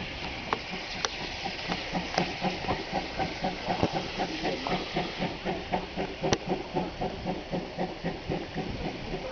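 GWR Collett 56XX 0-6-2 tank locomotive working hard uphill under steam, its chimney exhaust beating in a quick, even rhythm of about three beats a second over a steady steam hiss. A few sharp clicks sound over it.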